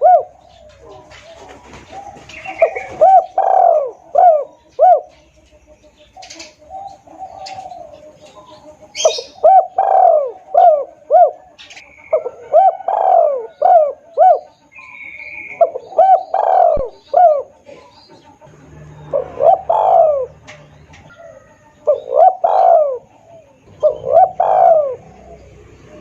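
Spotted dove (tekukur) cooing, as used for a hunter's lure call: about seven phrases, each a quick run of several coos, repeated a few seconds apart.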